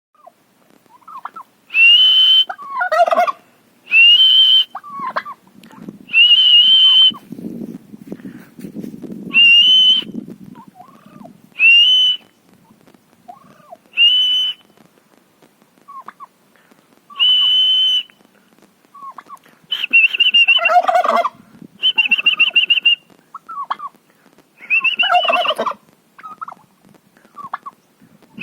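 Domestic turkeys gobbling again and again: fast, wavering calls that fall in pitch. They alternate with a loud, high, steady whistle that sounds about a dozen times, some of the later ones trilled.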